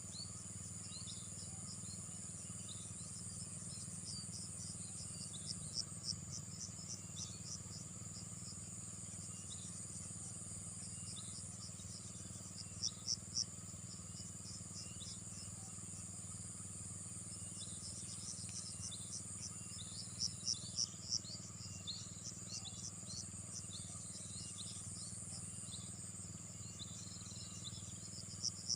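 Insects, crickets among them, calling steadily: a continuous high-pitched drone with runs of rapid chirps that come and go every several seconds, over a faint steady low hum.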